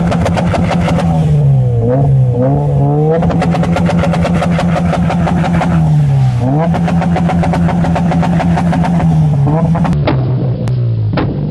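High-revving sports car engine with exhaust crackle. Its pitch mostly holds high and dips sharply and recovers several times, and about ten seconds in the sound switches to another run of the engine with a few sharp pops.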